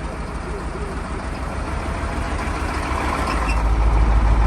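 Engine of a 1986 Ford F700 dump truck running with a steady low rumble, growing louder in the second half as it pulls harder.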